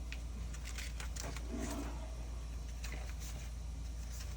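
Plastic Lego bricks being handled and pressed into place: a scatter of light clicks and rattles over a steady low electrical hum.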